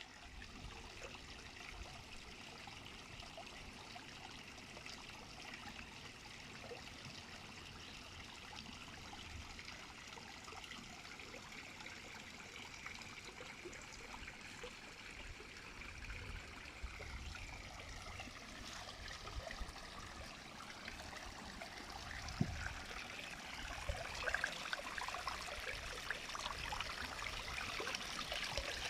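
Water trickling and splashing steadily in a goldfish aquarium. It grows louder over the last dozen seconds, with a few small clicks and ticks near the end.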